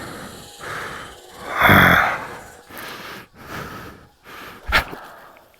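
A person breathing hard through the mouth while climbing steps, a few soft breaths and one loud, heavy exhale about two seconds in.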